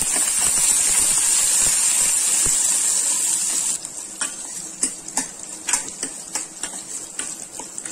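Shallots and garlic sizzling in hot oil in a steel kadai while a steel ladle stirs them. The sizzle is loud at first and drops away a little under four seconds in, after which the ladle's scrapes and taps against the pan stand out as quick clicks.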